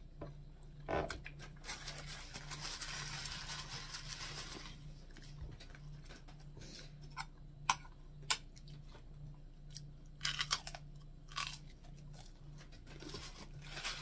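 Close-up chewing and crunching of dried fish and dried squid, with crisp tearing as pieces are pulled apart by hand. A stretch of crackly crunching comes a couple of seconds in, followed by scattered sharp clicks.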